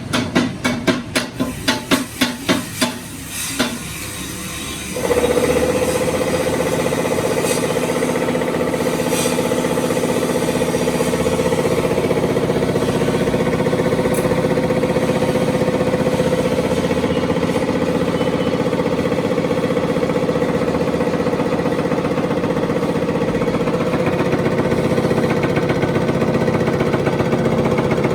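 About a dozen quick, sharp knocks in the first three and a half seconds, then a machine starts about five seconds in and runs steadily with a strong, even hum.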